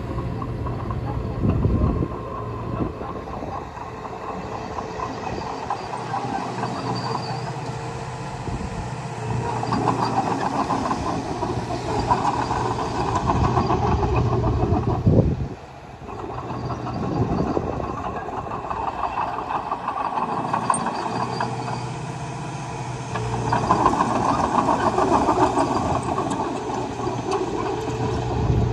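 Komatsu D20A crawler bulldozer working: its diesel engine runs steadily under the clatter of its steel tracks. It grows louder in several stretches as it pushes soil, with a brief drop about halfway.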